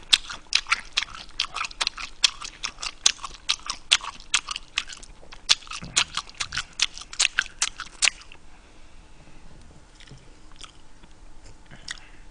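A man chewing a mouthful of food with wet, smacking mouth clicks, about four a second. After about eight seconds the chewing gets quieter, with only the odd click.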